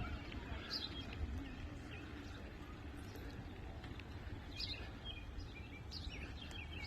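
Songbirds chirping: scattered short calls, several close together near the end, over a steady low background rumble.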